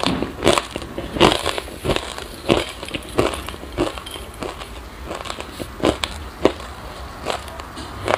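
Close-miked chewing of crunchy sesame seeds mixed with passion fruit: a run of sharp crunches, several a second at first, thinning out over the last few seconds.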